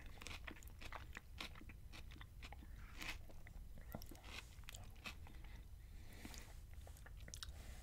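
A man chewing a mouthful of beef power bowl with greens and guacamole close to the microphone: soft, irregular wet mouth clicks and smacks.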